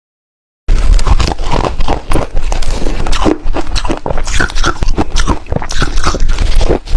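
Ice being bitten and chewed close to the microphone: loud, dense, irregular crunching that starts just under a second in.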